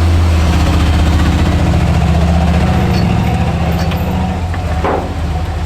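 Off-road vehicle's engine running steadily at low revs close by, easing off slightly near the end.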